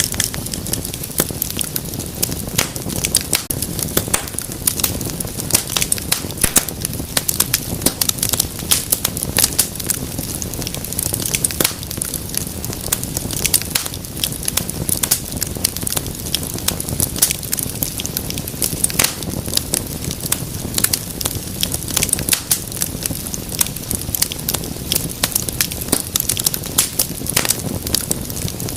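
Wood fire crackling in a fireplace: a steady low rush of flame under frequent sharp pops and snaps.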